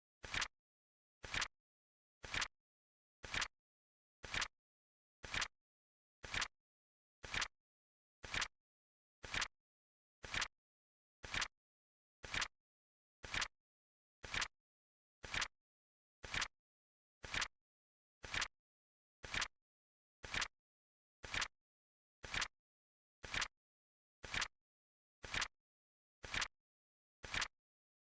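Flip-clock flip sound effect: a short, sharp double click once a second, evenly spaced and steady.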